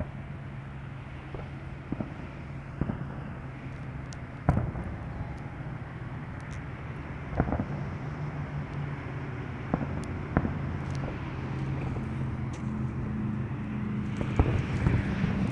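Fireworks going off in the distance as sharp bangs at irregular intervals, about seven of them, over a steady low hum.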